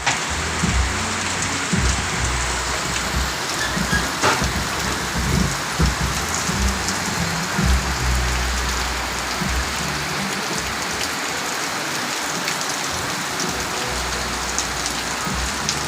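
Steady rain falling and pattering on surfaces, an even hiss throughout, with irregular low rumbling surges mostly in the first half.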